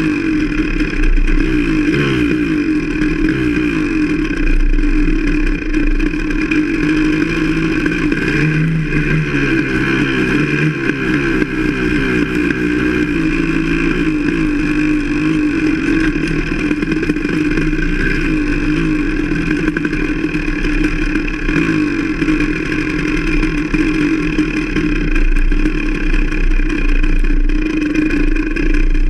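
Enduro motorcycle engine running under way, its pitch rising and falling as the throttle opens and closes along a dirt track.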